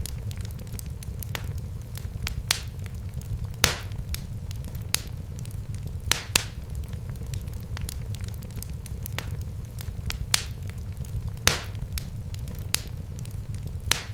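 Wood fire crackling in a fireplace: irregular sharp pops and snaps over a steady low rumble of the flames, with a few louder pops about four, six and eleven seconds in.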